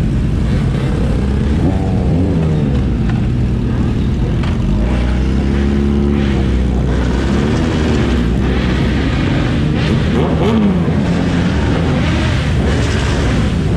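Several Kawasaki motorcycle engines running together over a steady low rumble. Their pitches rise and fall as they are revved, about a dozen times, overlapping one another.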